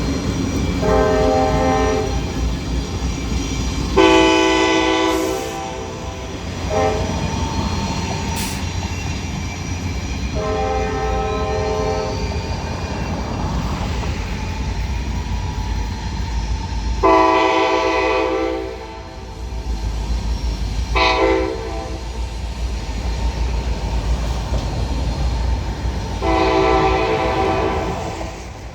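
Locomotive horn sounding a series of long blasts with short ones between, in the long-long-short-long pattern of a grade-crossing warning, over the steady low rumble of a passing train.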